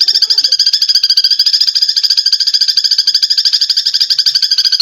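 Eurasian tree sparrow giving its fighting call: a fast, unbroken chatter of many short chirps a second at an even pitch.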